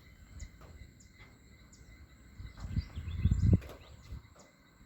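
Outdoor ambience of insects chirping steadily with faint bird calls. A low rumble swells about three seconds in and fades.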